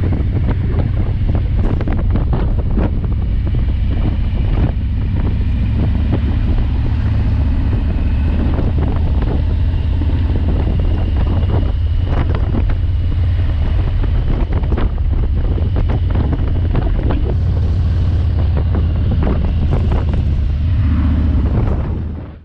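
2019 Harley-Davidson Heritage Classic 114's Milwaukee-Eight V-twin running at a steady cruise, a low constant drone, with heavy wind buffeting on the microphone; it fades out near the end.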